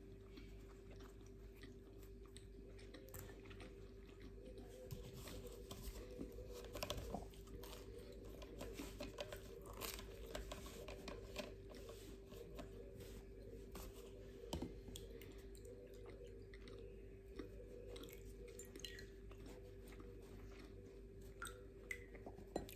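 Faint, close chewing and biting of a hazelnut-filled brioche, with soft crunches and small mouth clicks scattered irregularly throughout, over a steady low hum.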